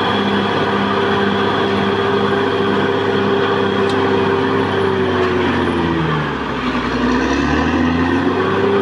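Caterpillar D6R XL bulldozer's diesel engine running hard. About six seconds in its pitch sags for a couple of seconds and then climbs back: the engine lugging down under load from the blade and recovering.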